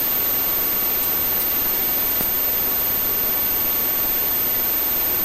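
Steady rushing noise of a police helicopter in flight, heard through the crew's intercom and radio feed, even and unchanging.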